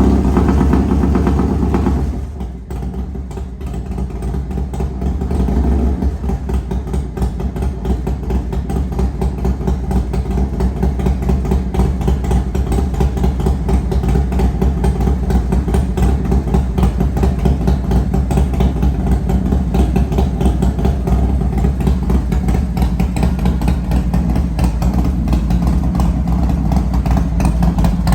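Cold-started S&S V111 V-twin on a Harley FXRS-SP, heard through a Thunderheader two-into-one exhaust. It runs fast for about two seconds, drops sharply, then settles into a steady, rhythmically pulsing idle.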